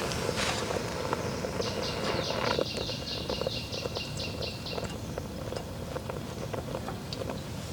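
A bird singing a trill: a run of about a dozen quick, falling high notes, roughly four a second, that stops near the middle. Light scattered clicks and knocks sound alongside.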